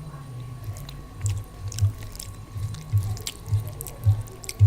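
Close-up chewing of a soft mouthful of food, likely daal and rice, in a steady rhythm of soft low thumps a little under two a second, with faint mouth clicks.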